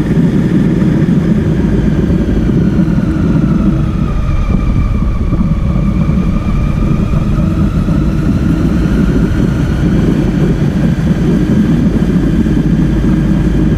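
Motorcycle riding along, heard from on the bike: a heavy low wind rumble over the engine, whose note sinks slowly for a few seconds and then rises again as the bike slows a little and picks up.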